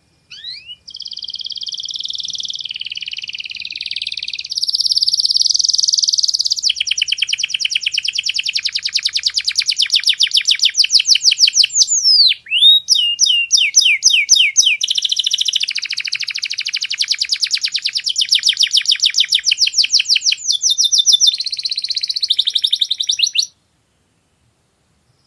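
Domestic canary singing a long song of buzzy trills and fast runs of repeated notes, with a few sweeping whistled notes in the middle. The song stops abruptly near the end.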